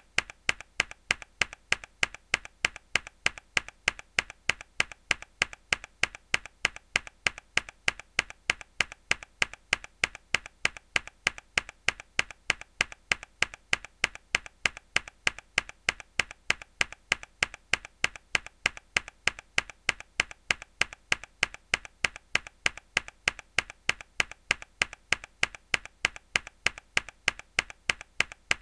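A mechanical keyboard key pressed hard over and over, a sharp click repeated at an even, fast rate of several a second, each loud click followed by a fainter one.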